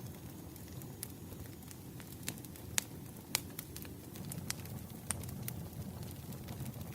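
Campfire crackling: irregular sharp pops and snaps of burning wood over a steady low rumble of the flames, with a couple of louder pops near the middle.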